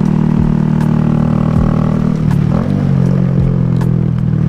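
Honda Grom mini motorcycle engine running steadily under way, its drone dropping slightly in pitch about halfway through and then holding.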